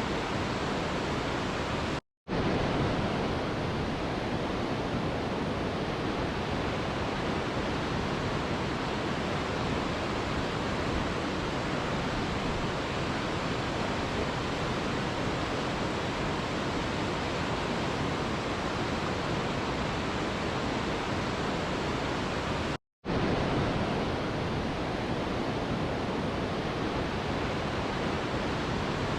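Steady rushing of a mountain river: an even wash of water noise with no change in level, cut twice by a brief dropout to silence.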